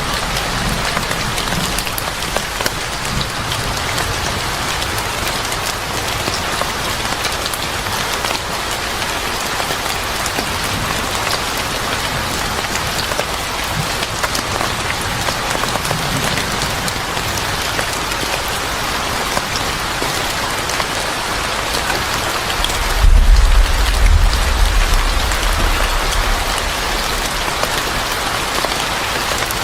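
Steady heavy rain with scattered drip-like clicks. About two-thirds of the way through, a deep low rumble swells up and is the loudest sound for a few seconds.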